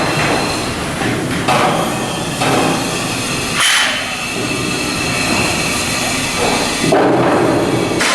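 Steel shipbuilding work: hammer blows and clanks on steel, four or so strikes over a steady din of yard machinery.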